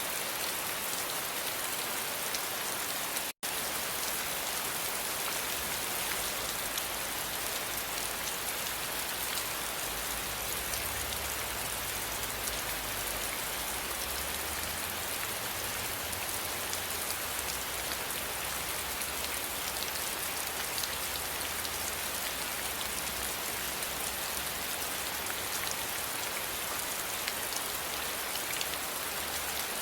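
Steady rain falling, a dense even hiss of pattering drops. It cuts out completely for an instant about three seconds in.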